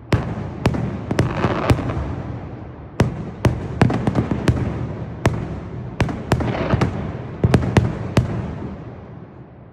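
Fireworks display bursting in quick volleys of sharp bangs, about sixteen of them, over a continuous low rumble that fades away near the end.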